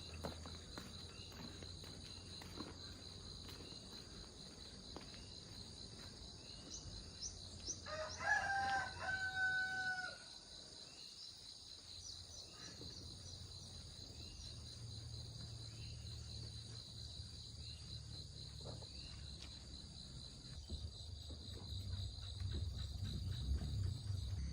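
A rooster crows once, about eight seconds in, over a steady high drone of insects.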